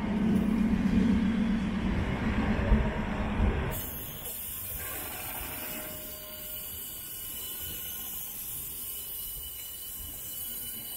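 Vy Nattåg sleeper train's coaches rolling slowly past along the platform as the train departs. A loud steady hum in the first few seconds drops away sharply about four seconds in, leaving quieter rolling wheel noise with a thin high whine near the end.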